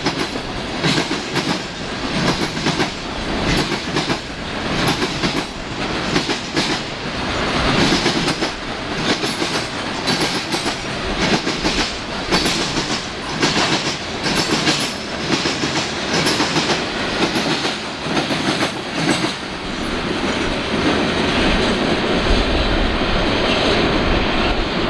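Canadian National freight train of boxcars and covered hoppers rolling past close by, its wheels clicking over the rail joints in a steady clickety-clack. About twenty seconds in the clicking thins out as the last cars pass and the train moves away, leaving a steadier low rumble.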